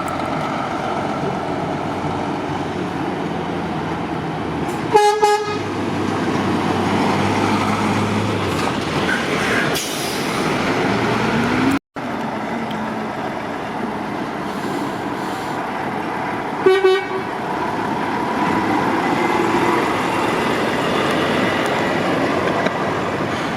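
Steady motorway traffic noise with a brief horn toot about 5 seconds in and another near 17 seconds.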